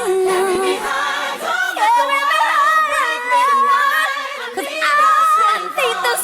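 Gospel choir and a female lead voice singing long melismatic runs and held high notes without clear words, with backing music underneath.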